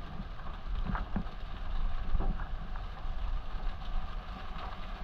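Heavy rain falling at sea, with wind buffeting the microphone in a low, uneven rumble and a few faint drop ticks.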